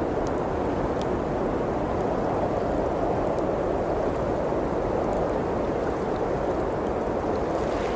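Steady blizzard wind noise, with a few faint crackles and pops from a wood fire in a fireplace.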